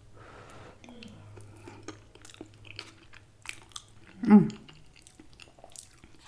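Close-miked mouth sounds of someone eating a spoonful of red beans and rice, with soft wet chewing and small clicks. About four seconds in comes a short, loud hummed "mm" of tasting.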